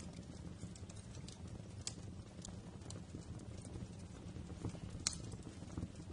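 Wood fire crackling in a fireplace: irregular sharp pops and snaps over a low, steady rumble of the flames. The loudest pop comes about five seconds in.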